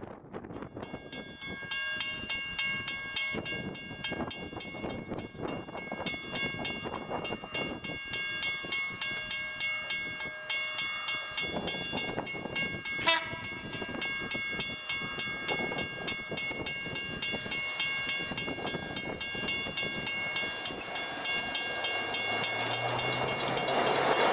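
CPH railmotor running along the line, its wheels clicking rapidly and evenly over the track with a steady whine of several high tones. A short sharp sound comes about halfway through, and the running gets louder with a low hum near the end.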